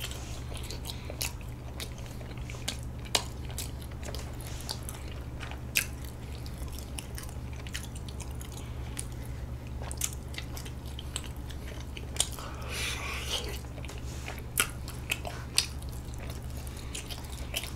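Close-up chewing and mouth sounds of someone eating soft, sticky half-moon rice cakes (bandal-tteok): scattered wet clicks and smacks over a steady low hum.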